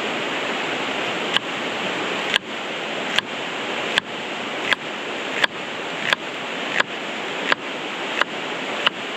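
Knife chopping on a cutting board, evenly spaced strokes about three every two seconds starting about a second in, over the steady rush of a creek.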